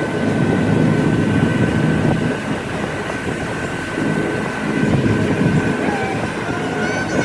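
Steady engine drone with a constant high whine running through it.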